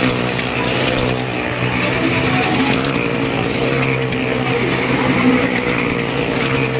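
Car engine running at steady high revs as it drives around the wooden wall of a well-of-death stunt drum.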